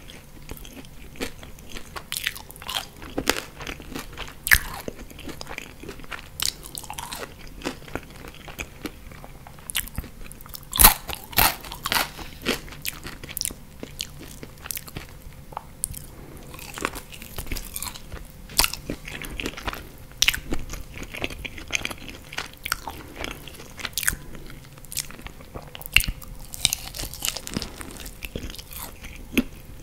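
Close-miked chewing and biting of crisp french fries and sauced chicken wings: irregular crunches and crackles throughout, the loudest cluster a little under eleven seconds in.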